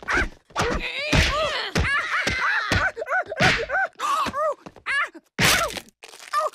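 A fight: a rapid run of blows landing, each with short shouted grunts and cries, with a pause about five and a half seconds in.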